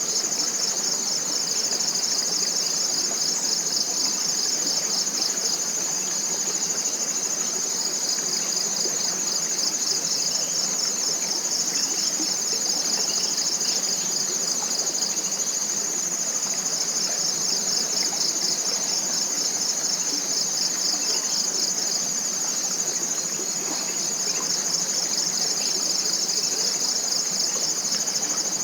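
Chorus of forest insects, a continuous high-pitched buzzing trill with a fast pulse, over a steady hiss of a small stream running.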